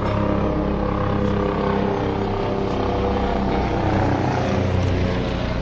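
Helicopter flying past, a steady rotor and turbine drone whose pitch drops slightly as it goes by.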